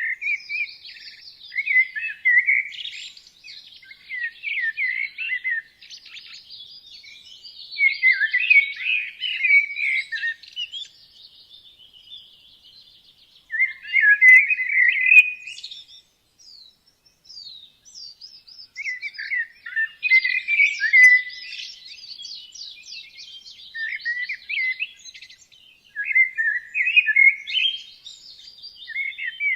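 Songbirds singing, several voices overlapping in quick twittering phrases a couple of seconds long with short pauses between.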